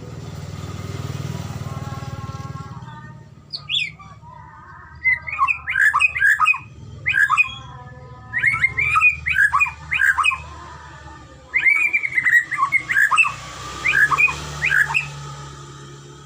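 White-rumped shama (murai batu) singing: rapid phrases of varied, sliding whistles, in three bursts beginning about four seconds in. A low rumble swells and fades in the first few seconds.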